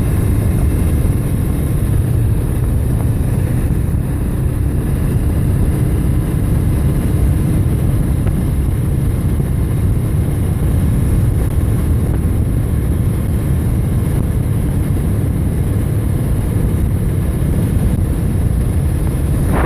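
Steady, loud low rumble of riding noise on a camera mounted on a moving bike: wind buffeting the microphone mixed with road and vehicle noise, unbroken throughout.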